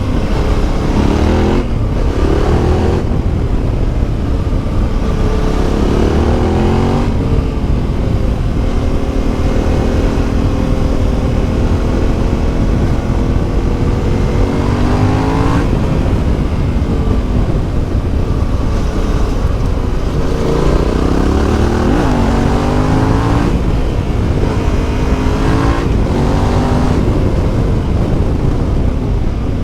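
Yamaha Ténéré 700's CP2 689 cc parallel-twin engine through an Akrapovič exhaust, under way with the revs rising and falling several times between steadier stretches, over a constant low rumble.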